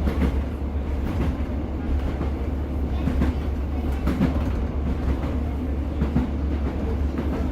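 Class 150 diesel multiple unit running along the line, heard from inside the carriage: a steady low rumble of the underfloor diesel engine and wheels, with irregular clicks and knocks from the wheels over the track.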